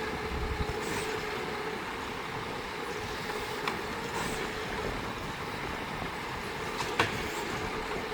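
Garbage truck running steadily, with a few sharp knocks, the loudest near the end.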